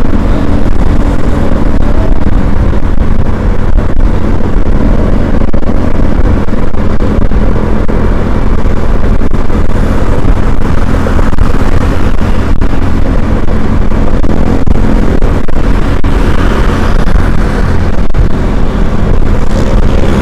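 A road vehicle running steadily, a loud continuous low rumble with a steady engine hum under it.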